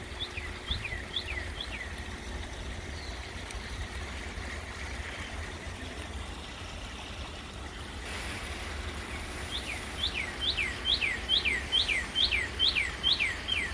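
Northern cardinal singing: a short run of about four clear whistled notes, each sliding down in pitch, then near the end a longer run of about ten, over a steady background hiss.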